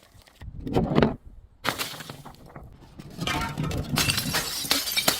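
Glass breaking and crunching in several bursts: a short crunch, a pause, another burst, then a longer crackling run of shattering glass in the second half.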